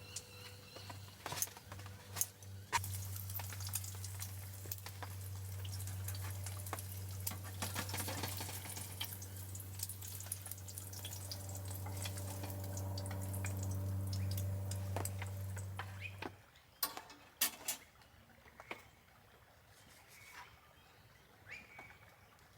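Small electric pump humming steadily while water runs and splashes, with clinks on top; the pump cuts off suddenly about 16 seconds in, leaving scattered clicks.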